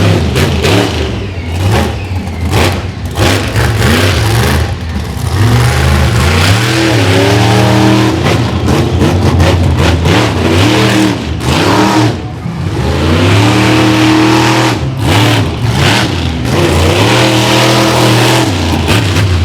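Monster truck engine at hard throttle, revving up and down. Its pitch climbs in several long rises, around seven, fourteen and seventeen seconds in, with sharp cuts and stabs of throttle between them.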